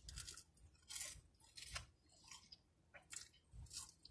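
A person chewing crunchy fried chicken bites, with faint, irregular crunches as the breading breaks.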